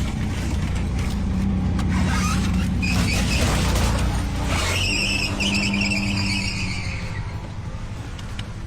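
Road traffic running, with a vehicle skidding: a high, wavering squeal starts about four and a half seconds in and lasts about two seconds over the steady low rumble of engines.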